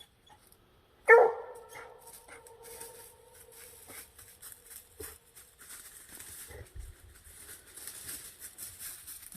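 Coon dog at the tree giving one long howl about a second in, held at a steady pitch for several seconds and fading: the treeing bawl of a hound holding a raccoon up a tree. Faint rustles and ticks follow.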